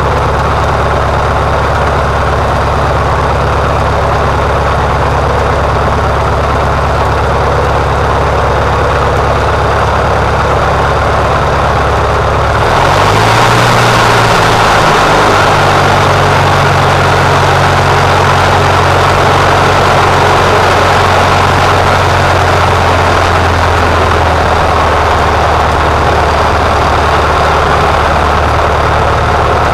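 Cessna 150's four-cylinder Continental O-200 engine and propeller drone steadily in the cockpit in flight. About thirteen seconds in, the sound grows louder and hissier, and the engine tone wavers for a couple of seconds before settling at a new pitch.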